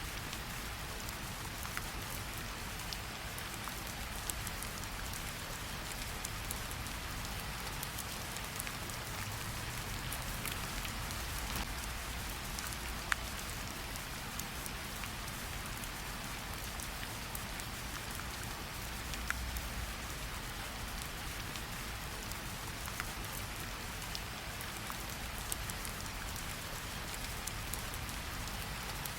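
Steady rain falling, with single drops ticking sharply now and then over a low rumble.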